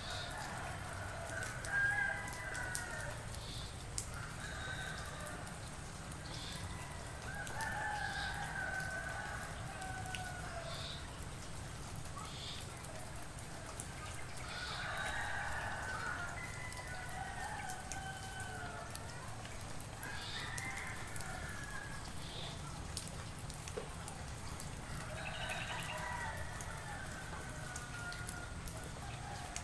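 Roosters crowing one after another, a long call every few seconds, some overlapping. Short high chirps from another bird come between the crows, over a steady low hum.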